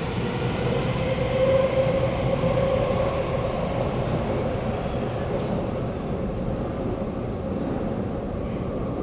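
Taipei Metro C371 electric train pulling out of the station, its traction motors whining over the running rumble. The whine climbs a little in pitch over the first two seconds, then the sound slowly fades as the train moves away.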